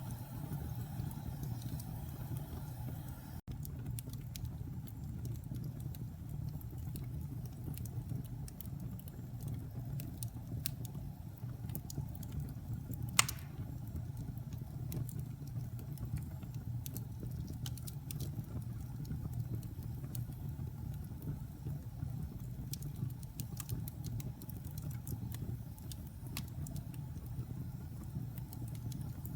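Fire crackling in a fireplace: a steady low rumble with scattered small crackles and one sharper pop about thirteen seconds in.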